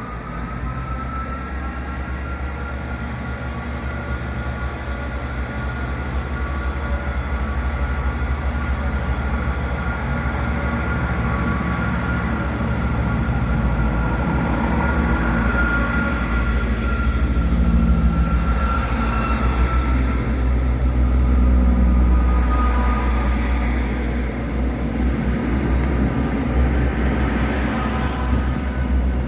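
Train moving through a railway station: a steady low rumble with a faint high whine over it, growing louder over most of the time as the train comes closer.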